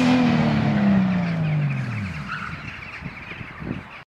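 Logo-sting sound effect of a car engine winding down: one engine note falling steadily in pitch over about two seconds, then fading and cutting off abruptly near the end.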